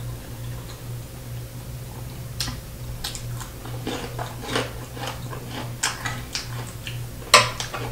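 Close-miked chewing of a mouthful of fried pork chop: irregular short wet mouth clicks and crunches, with a louder one near the end, over a steady low hum.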